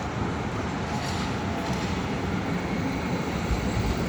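Electric tram rolling past on street track, a steady rumble of wheels on rail that slowly grows louder.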